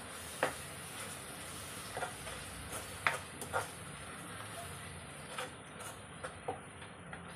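Onion-tomato masala frying in a nonstick kadhai: a low steady hiss with scattered light clicks and taps, including a spatula tap on the pan near the start.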